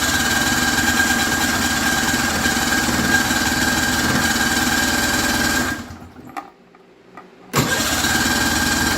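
Snowmobile engine being cranked over by its electric starter without catching, a long crank of about six seconds, then a second crank starting near the end. The steady whine and rhythmic turning show no sign of the engine firing.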